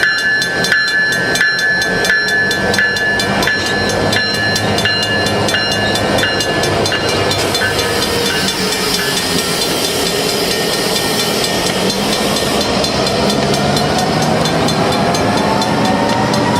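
CN freight train passing, with a bell ringing about once every 0.7 seconds that fades out about seven seconds in. After that a whine rises steadily in pitch over the rumble of the train.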